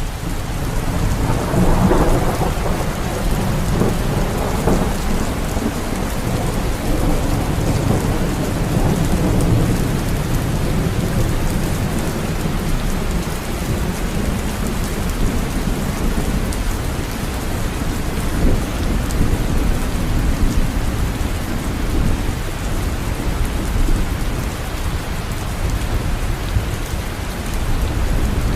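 Steady heavy rain falling, with low rumbling thunder that swells a couple of seconds in and again around the middle.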